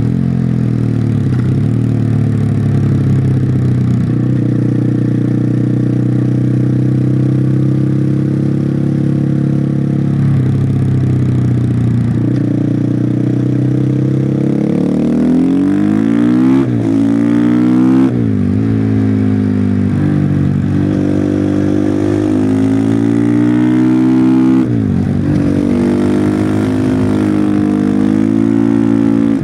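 Husqvarna FE501's single-cylinder four-stroke engine, stock exhaust, under way on the road. It holds fairly steady revs at first, then revs climb steeply and drop suddenly several times, as through gear changes and throttle on and off.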